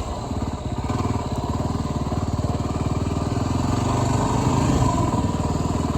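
Motorcycle engine running at low speed with a rapid, even pulse while the bike is ridden through slow, tight figure-eight turns; it swells slightly about four to five seconds in.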